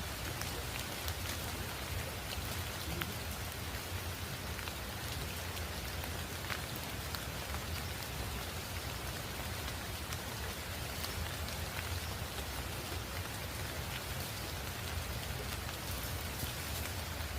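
Steady rain falling, with scattered individual drops ticking sharply over an even hiss and a low rumble.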